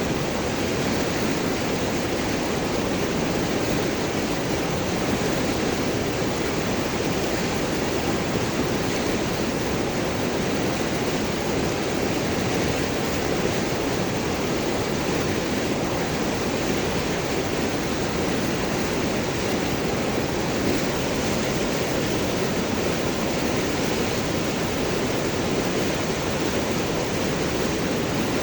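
River water flowing and gurgling over and around large rocks, a steady rushing that holds even throughout.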